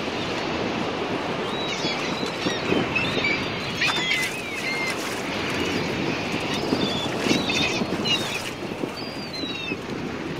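Birds calling over and over in short rising and falling chirps, over the steady rumble of a boat under way and the water.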